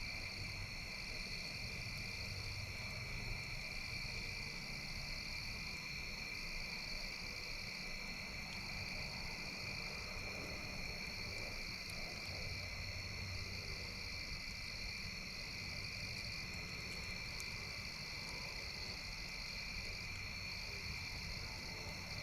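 Steady outdoor chorus of crickets and frogs: a continuous high trilling at two pitches, the upper one pulsing gently every second or two, over a low rumble, with a few faint pops.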